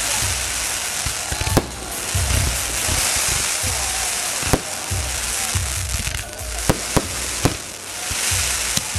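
Aerial fireworks going off: about six sharp bangs of bursting shells, three in quick succession about seven seconds in, over a steady crackling hiss and low rumbling booms.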